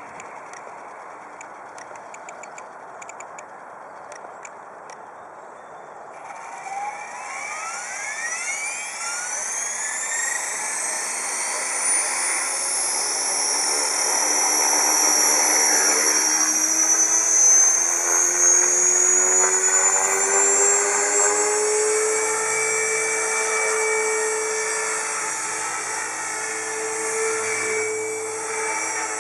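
Align T-Rex 450 Pro DFC electric RC helicopter spooling up. About six seconds in, the motor and rotor whine starts and rises steadily in pitch for several seconds, then holds as a steady high whine at head speed.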